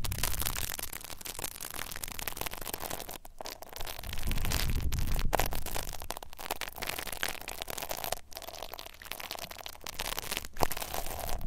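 Close-miked rubbing and scratching on an ASMR microphone, as in ear massage: a dense crackly noise that swells and fades, with a heavy low rumble at times.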